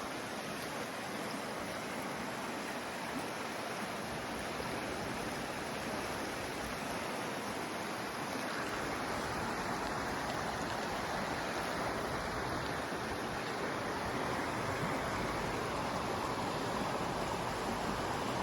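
Running water, a steady rushing noise that grows a little louder over the second half.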